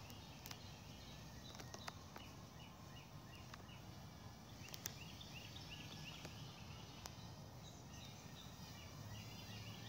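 Faint outdoor ambience with a bird chirping a quick series of short, high notes about halfway through and again near the end, and a few faint clicks.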